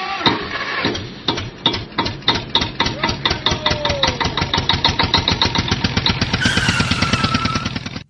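Tractor engine chugging in an even rhythm of about six beats a second, quickening slightly, with a brief high whine near the end.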